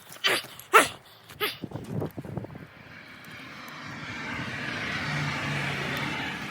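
An aircraft passing over, a steady engine hum that swells up after a few seconds and begins to fade near the end. A few short sharp sounds come in the first two seconds.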